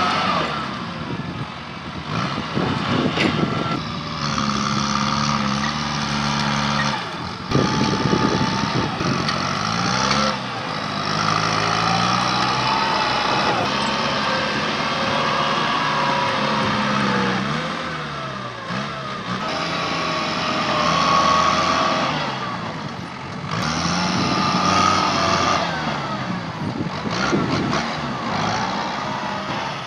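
Tractor engine working hard under load, its pitch rising and falling as it revs, with a few abrupt breaks in the sound.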